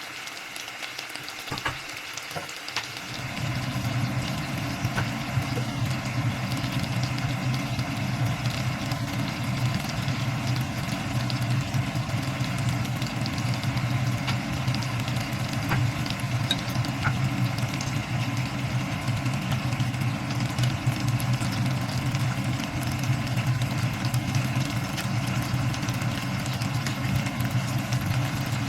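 A few light kitchen knocks, then about three seconds in a steady low motor hum starts and runs on, over a faint hiss of cooking.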